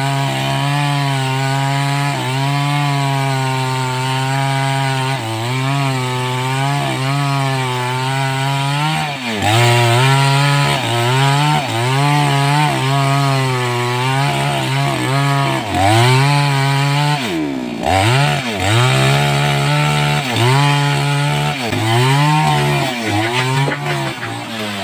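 Two-stroke 588X chainsaw running at high revs through a cut in sengon wood. The engine note holds steady for the first several seconds, then repeatedly sags and picks back up as the chain bogs under load in the cut.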